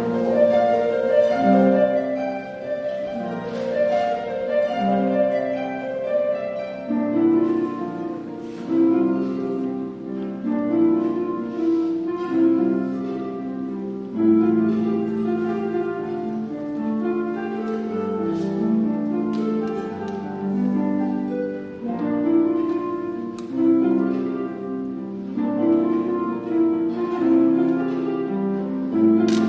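Live harp and pipe organ music: plucked harp notes over sustained organ chords in a slow, flowing piece.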